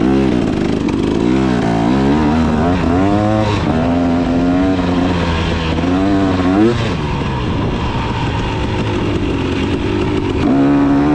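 KTM 300 two-stroke dirt bike engine revving up and down with the throttle while riding. It settles to a steadier, lower note about seven seconds in and picks up again near the end.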